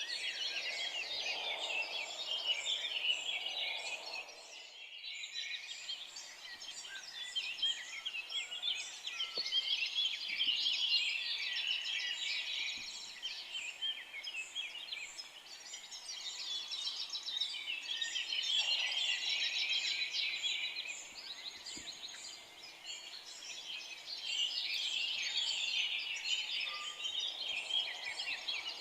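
Dense chorus of many forest birds chirping and trilling together, with no single song standing out. It swells and eases in waves and drops off briefly about five seconds in.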